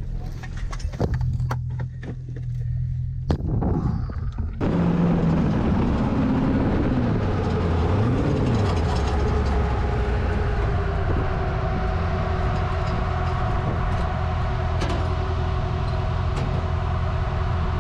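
Off-road vehicle engine: a low running hum with a few sharp knocks, then the engine comes up louder about four and a half seconds in, revs up and down a few times and settles into a steady run.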